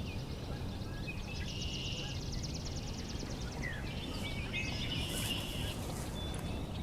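Outdoor spring birdsong from several birds: a fast, high trill in the first half, then a run of chattering, whistled notes, over a steady low background rumble.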